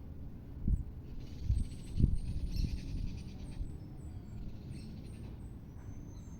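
Outdoor camera-microphone recording: a low rumble with a couple of thumps in the first two seconds, and faint high chirping in the background.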